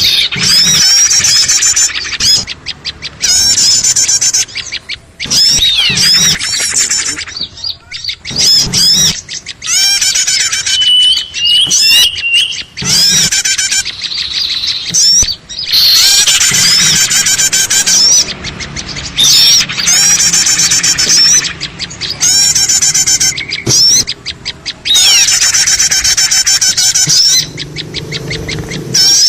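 Loud, busy chorus of many small birds chirping and chattering together in abrupt blocks that start and stop sharply. It is a lure recording used by bird trappers to draw small birds in.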